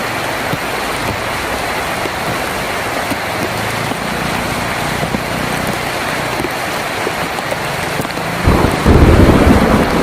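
Heavy rain drumming steadily on a tin roof. About eight and a half seconds in, a loud low rumble of thunder rolls in, becoming the loudest sound.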